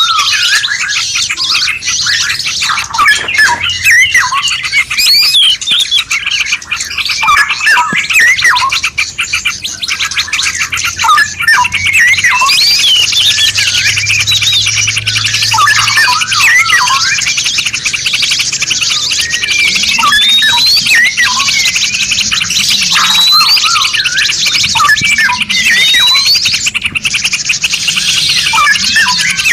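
A dense chorus of several songbirds singing at once, a compiled songbird master (masteran) track: overlapping chirps, short whistles and rapid trills. From about twelve seconds in, a fast continuous trill fills the background, with upward-sweeping whistles over it near the end.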